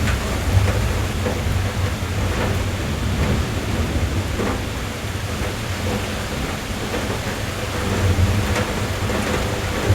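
Steady rain knocking on a car's roof and glass, heard from inside the cabin: a dense patter with a deep low rumble underneath and scattered louder drops.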